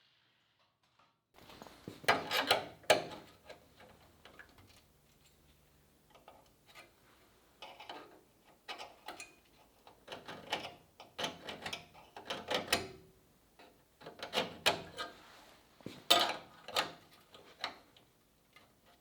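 Irregular sharp clicks and knocks, often in close pairs or threes, from metal parts and hand tools being handled in a workshop, starting a little over a second in.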